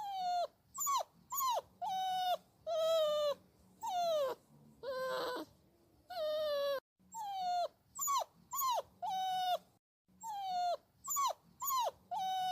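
Puppy whining: a string of short, high-pitched whines, each sliding down in pitch, with brief pauses between them. One rougher, wavering cry comes about five seconds in.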